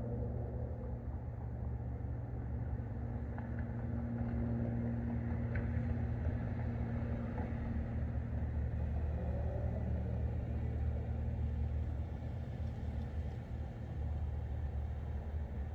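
Steady low rumble with a constant low hum underneath, even in level throughout.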